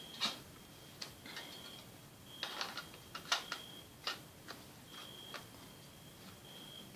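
Irregular light clicks and taps of small plastic netbook parts being handled and fitted during reassembly, some in quick clusters. A faint high steady tone comes and goes between them.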